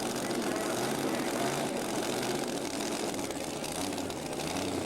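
A tractor engine running steadily at an even pitch, over a constant background noise.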